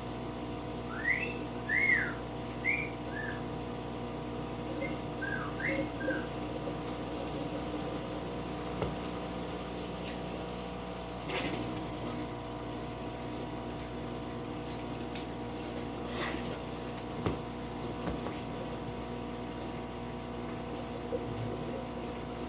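A steady electrical hum, with about eight short, high, whistle-like chirps that rise and fall in the first six seconds, and a few light knocks later on.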